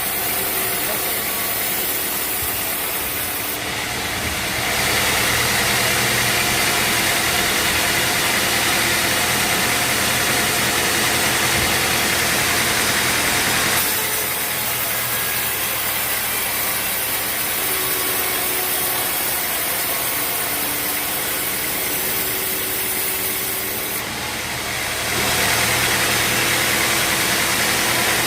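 Sawmill machinery running steadily: a constant motor hum under a broad hiss. It gets louder about five seconds in, eases off about fourteen seconds in, and rises again near the end.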